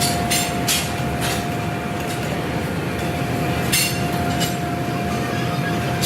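Factory machinery running with a steady hum and a constant whining tone, with several sharp metallic clinks of steel parts being handled.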